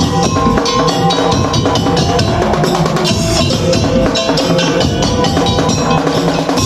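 Madurese tong-tong (ul-daul) ensemble playing a sholawat tune: a fast, steady beat of drums and percussion under held melody notes.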